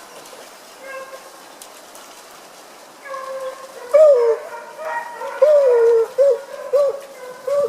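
A pack of hunting hounds baying: faint at first, then louder from about three seconds in, with a string of drawn-out bays that rise and fall in pitch near the end. This is the cry of hounds running a fox's line.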